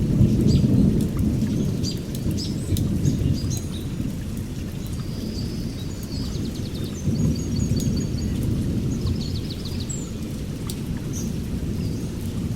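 Songbirds chirping in short high notes, with a rapid trill in the middle, over a steady low rumble that swells near the start and again about seven seconds in.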